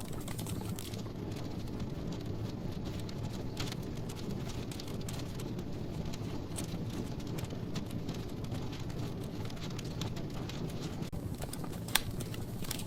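Wood logs burning in a fireplace: a steady low rush of flames with scattered crackles and pops, one louder pop near the end.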